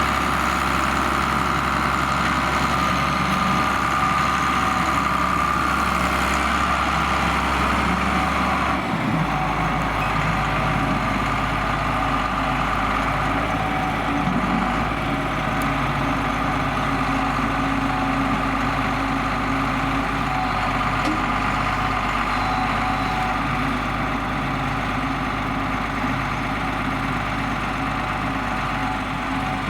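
John Deere 4850 tractor's six-cylinder turbo diesel engine running steadily under the load of a six-furrow plough. Its tone shifts abruptly about nine seconds in.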